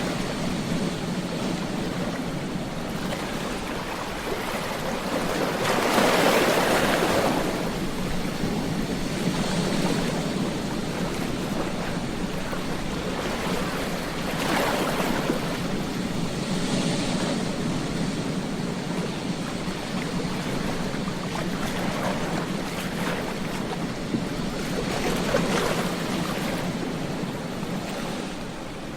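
Ocean waves breaking on a beach: a steady wash of surf, with three louder waves crashing several seconds apart.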